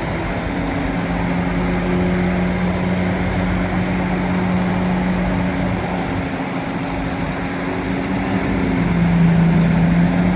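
Bulldozer diesel engine running steadily. Near the end its note drops a little and gets louder.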